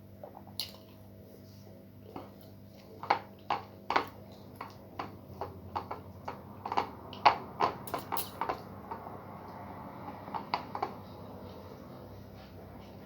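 Close-up mukbang eating sounds: a run of sharp, wet mouth smacks and clicks, thickest and loudest in the middle, over a faint steady low hum.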